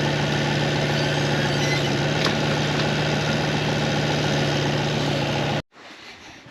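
Engine of heavy farm machinery running steadily at idle with a steady low hum, cutting off suddenly near the end.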